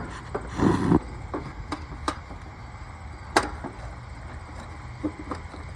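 Hand work on an air-conditioning unit: a brief scraping burst about half a second in, then scattered sharp clicks and taps of tools and parts being handled, over a faint low hum.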